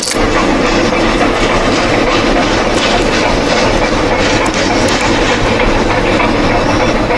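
A steam train running on rails, a steady loud rumble of wheels and running gear with no distinct puffs.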